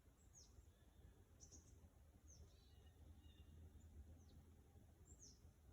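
Faint calls of small songbirds: short, high, downward-sliding chirps about once a second, over a faint low outdoor rumble.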